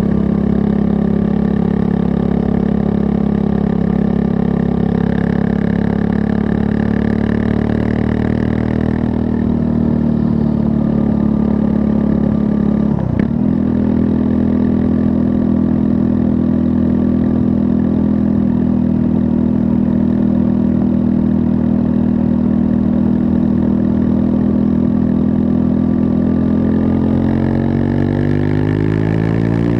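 Triumph Scrambler 400 X's 398 cc liquid-cooled single-cylinder engine running at steady revs while riding, with a short break in the engine note about 13 seconds in, like a gear change. Near the end the revs climb as the bike accelerates.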